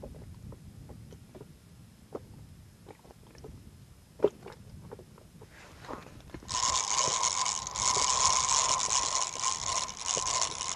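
Small clicks and knocks of rod and tackle handling, with one sharp click about four seconds in. About six and a half seconds in, a fishing reel starts being cranked fast, a steady whirring with a clear tone that pauses briefly twice, as a hooked fish is reeled in on a bent rod.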